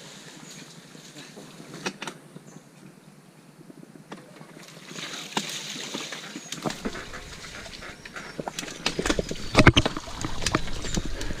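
Mountain bike riding through a shallow creek and over rocks: tyre and water noise with frequent clattering knocks. It grows louder in the second half, with the heaviest knocks about ten seconds in.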